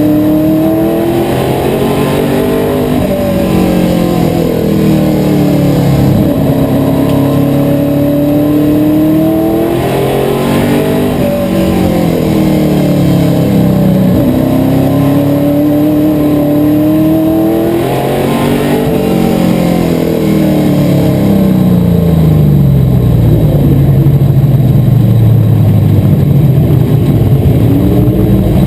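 Asphalt modified race car engine running hard, its revs rising and falling in a regular cycle about every eight seconds, as on the straights and corners of a short track. Near the end it settles into a lower, steadier, slightly louder drone.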